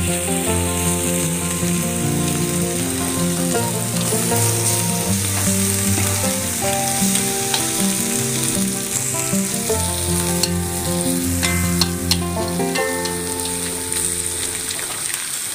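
Catfish pieces coated in lemongrass and chilli frying in oil in a wok over medium-low heat: a steady sizzle, with chopsticks ticking against the pan a few times in the second half. Soft background music with a stepping melody runs underneath.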